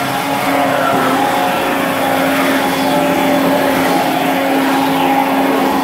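Two-stroke chainsaw running at high revs with a steady engine note, cutting through floorboards.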